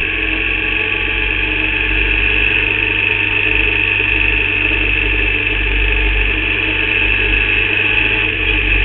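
Formula Vauxhall 8v racing car engine running at steady revs, heard from on board, with a low rumble underneath; the driver reports the engine was misfiring in this race.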